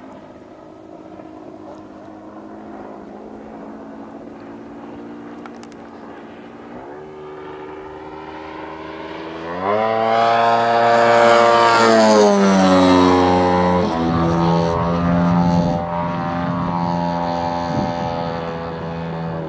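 Giant-scale RC airplane's engine and propeller in flight. Its pitch steps up twice, it gets loudest about halfway through, then its pitch falls and it gets quieter as it carries on.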